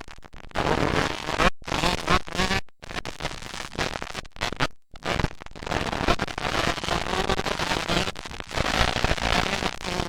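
Dirt bike engines racing, a loud crackling, popping engine noise with shifting pitch, cut by several brief dropouts in the sound.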